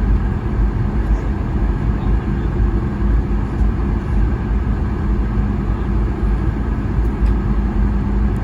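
Steady cabin noise inside a Boeing 737 MAX 8 on the ground after landing: a constant low rumble with a steady hum.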